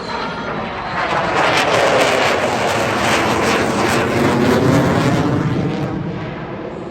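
F-22 Raptor's twin Pratt & Whitney F119 turbofans as the jet flies past: a loud jet rush that swells about a second in, sweeps with a phasing whoosh through the pass, and tails off near the end.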